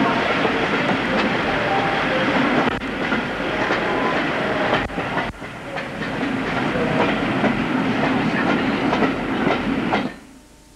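Running noise of a train heard from on board, with wheels clicking over rail joints at uneven intervals. The sound cuts off suddenly about ten seconds in, leaving only faint tape hiss.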